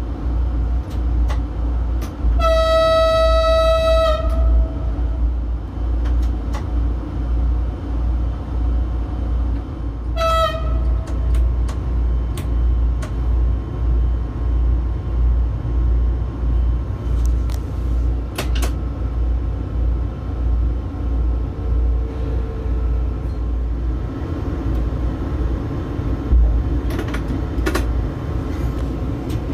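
A train running with a steady low rumble and rhythmic pulsing, its horn sounding one long single-note blast about two seconds in and a short blast around ten seconds in.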